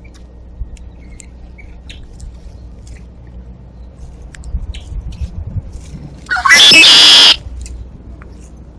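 Red-winged blackbird singing close by: one loud, harsh, buzzy conk-la-ree lasting about a second, beginning about two-thirds of the way in. Faint scattered chirps of small birds come before it.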